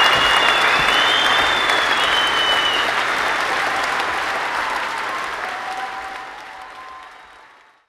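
Crowd applauding, fading out over the last couple of seconds.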